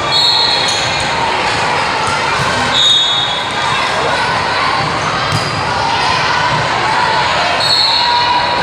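Indoor volleyball gym during play: a steady din of crowd chatter and court noise echoing in a large hall. Three short, high-pitched squeals cut through it, one at the start, one about three seconds in and one near the end.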